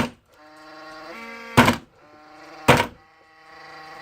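A noisy humidifier's motor humming with a pitched whine, struck hard three times with loud thunks. After each blow the hum briefly cuts out, then builds back up.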